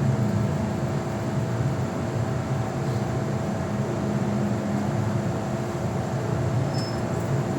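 Interior sound of an MTR M-Train electric multiple unit running on the Island Line: a steady rumble of wheels on rail with a constant motor hum. There is a faint tick near the end.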